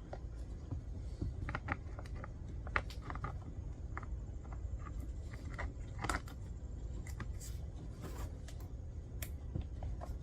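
Light clicks, taps and short scrapes of plastic and metal chainsaw parts being handled and fitted together while the saw is reassembled, at irregular intervals over a steady low rumble.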